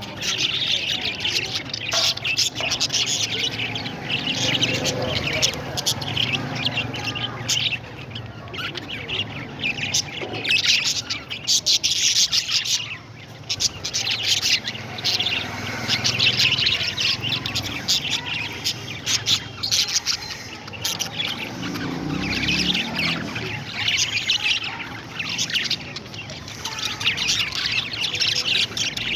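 Many parrots calling at once: a dense, unbroken stream of rapid high chirps.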